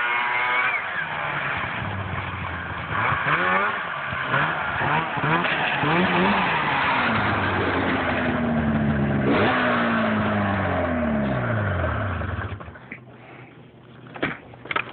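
2007 Arctic Cat M6 snowmobile's two-stroke twin engine on its stock exhaust, revved up and down again and again, then shut off about twelve seconds in. A few sharp knocks follow near the end.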